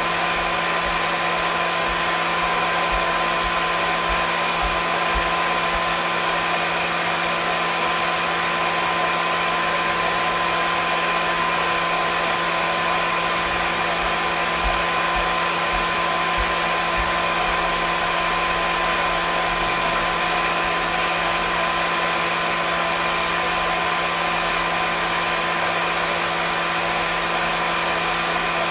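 Hair dryer running steadily: a constant rush of air with a steady motor hum running under it.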